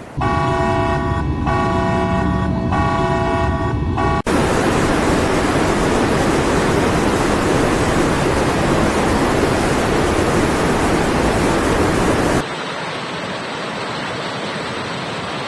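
A vehicle horn sounds three times in quick succession. It then cuts to a loud, steady rushing noise, which drops to a quieter rush about twelve seconds in.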